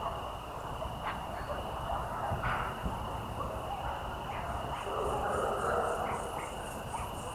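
Evening chorus of crickets and frogs: a steady high insect trill with faster pulsed chirping above it and a dense frog chorus beneath, which thins for a few seconds and swells again about five seconds in.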